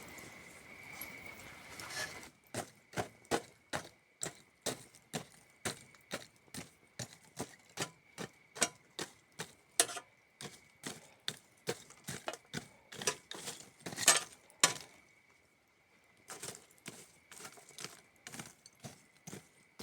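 Wood campfire crackling, with sharp pops coming two or three a second from about two seconds in and a short lull near three-quarters through, over the steady high trill of crickets.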